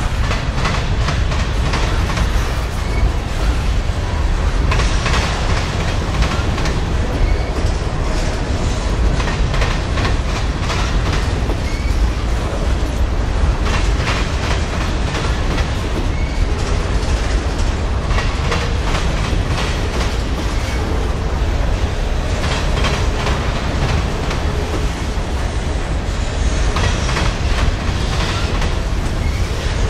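Freight train cars rolling past close by: a steady low rumble, with clusters of sharp clicks every few seconds as each car's wheels cross the rail joints.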